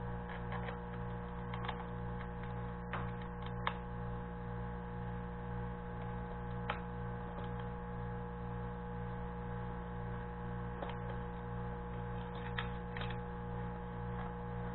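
Steady electrical mains hum, with a few faint light clicks of small metal parts and tools being handled.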